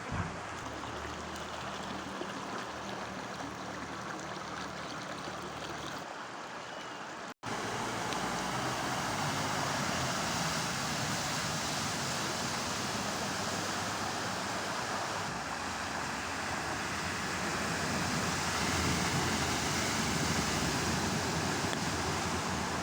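Floodwater rushing steadily through a street. A brief cut about seven seconds in, after which the rushing is louder.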